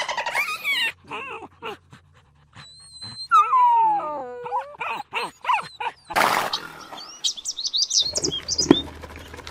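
A quick succession of different animal calls: a held high whistle, then a long falling whine, and rapid high chirps near the end.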